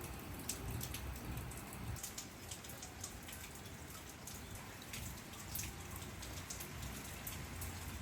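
Rain falling, a steady hiss with individual drops heard as irregular sharp ticks on a nearby surface.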